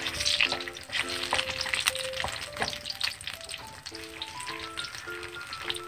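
Thin sweet potato slices deep-frying in hot oil in a pan: a steady sizzle with many small crackles as they near golden and crisp. A light background tune of short plinked notes plays alongside.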